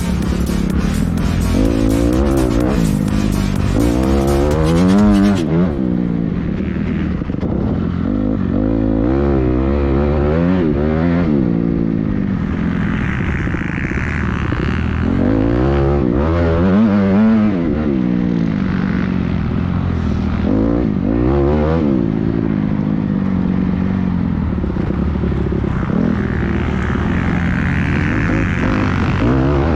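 Motocross bike engine revving hard and backing off again and again, its pitch rising and falling as the bike is ridden around the track. A dense crackling noise lies over it for the first five seconds or so.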